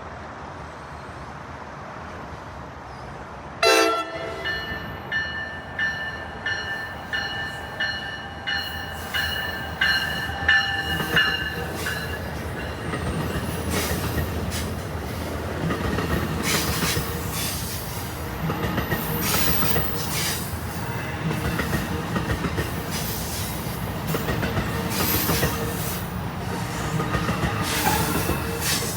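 A New Jersey Transit train sounds its horn with a sudden blast about four seconds in. It then runs through the station with high-pitched wheel squeal, followed by steady rumbling and repeated clicking of wheels over rail joints.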